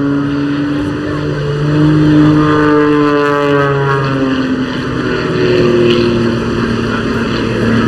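Pitts Special's Lycoming O-540 flat-six and propeller running in flight under power, a loud drone whose pitch drops about a second in, climbs again, then falls a little after four seconds in as the aircraft manoeuvres.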